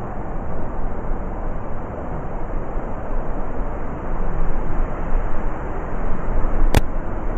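Heavy blizzard wind blowing with a low, rushing noise that swells and eases in gusts. A single sharp click cuts through near the end.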